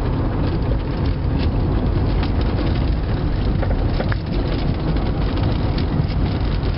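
Steady road and engine rumble inside a 1997 Toyota Avalon's cabin while driving, with a few short, sharp rattles from the front suspension. The owner takes the rattle for a worn upper strut mount on the passenger front.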